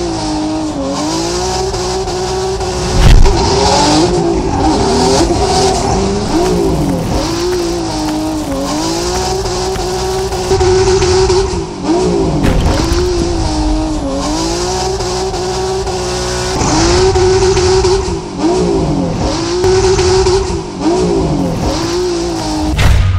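Nissan 370Z Nismo's 3.7-litre V6 revving hard while drifting on sand and gravel: the engine is held at high revs, dipping and climbing again every second or two, over the noise of spinning tyres in loose sand. A loud thump about three seconds in.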